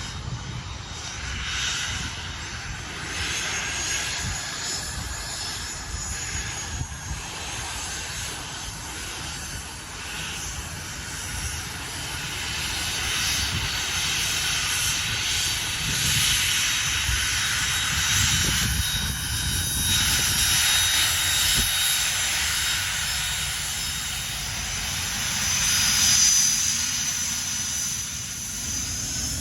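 Airliner engines running with a high, steady whine over a loud rushing hiss, loudest near the end, with wind rumbling on the microphone.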